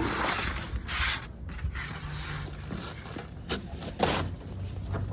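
Scraping and rubbing with a few sharp knocks as a Chevy/GM truck's spare tire is winched down on its cable hoist.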